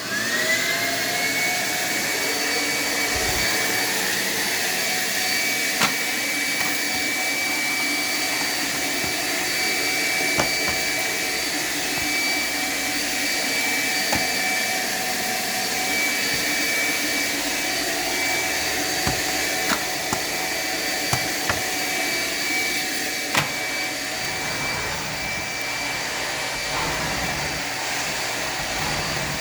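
Vacumaid central vacuum switching on: its whine rises over about the first second, then it runs steadily with a high whine over the rush of air through the hose. A few light knocks are heard along the way.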